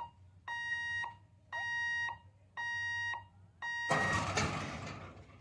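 Electronic warning beeper at a railway level crossing sounding a steady tone, about once a second. Near the end a loud rushing noise lasting about a second cuts across it.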